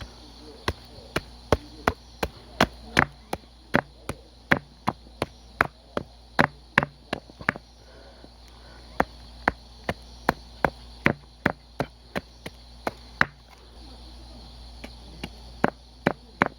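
Hand axe chopping wood in quick, even strokes, about two to three sharp knocks a second, with two short pauses: shaping a wooden tent peg.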